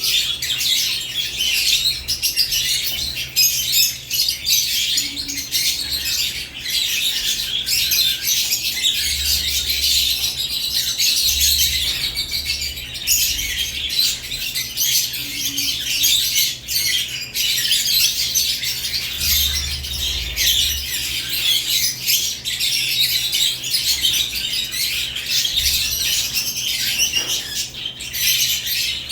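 A flock of caged lovebirds chirping continuously, many high chirps overlapping in a dense chatter, over a low steady hum.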